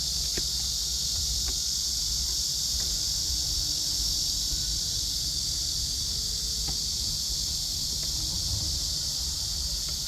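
Steady, high-pitched chorus of singing insects that holds unbroken, with a few faint clicks and a low rumble beneath it.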